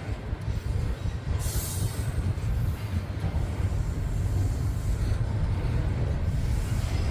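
Freight train cars rolling past with a steady low rumble of wheels on rail, with short spells of high hiss from the wheels about a second and a half in and again near the end.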